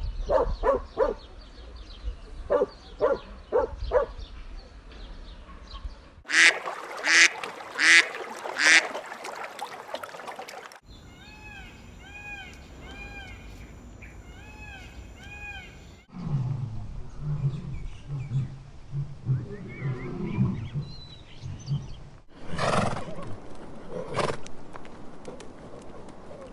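A run of different animal calls from spliced sound clips, each cut off abruptly. It goes: a string of short calls, then four loud calls, then rapid, evenly repeated chirps, then low repeated pulses, then a few more calls near the end.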